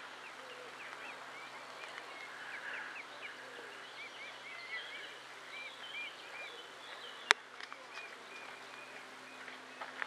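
Birds calling in a run of short, high, arched chirps, several a second, with a single sharp click about seven seconds in.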